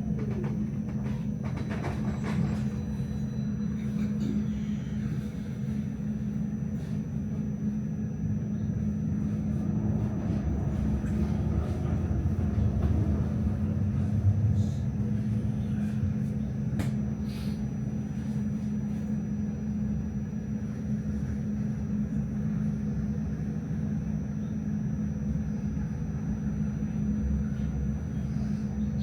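Melbourne tram running along its rails: a steady low rumble with a constant hum, a few light clicks, and a brief swell in loudness about halfway through.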